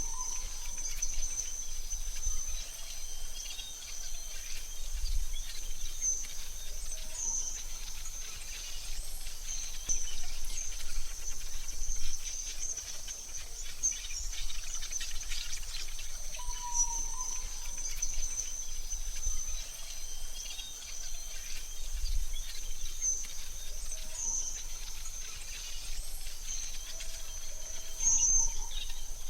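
AI-generated forest ambience: a steady high insect trill, like crickets, with occasional short bird chirps a few times over it and a low background rumble.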